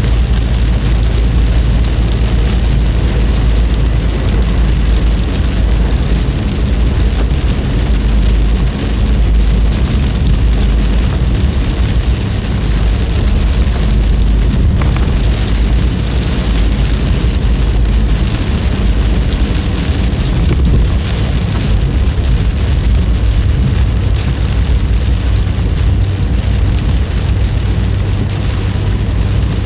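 Rain falling on a moving car, over a steady low rumble from the car driving through it.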